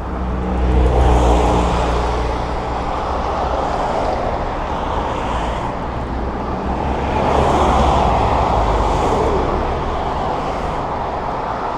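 Road traffic heard from a moving bicycle: car engines running and tyres rumbling steadily. Vehicles pass close by, swelling in loudness about a second in and again around eight seconds in.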